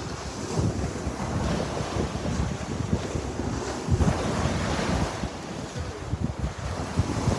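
Sea waves breaking and washing on the shore, with wind buffeting the microphone; a wave surges up about four seconds in.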